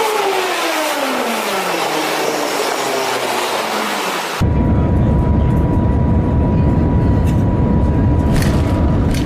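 A high-speed train passes with a whine that falls steadily in pitch. About four seconds in, the sound cuts abruptly to a loud, low rumble with a faint steady high tone through it.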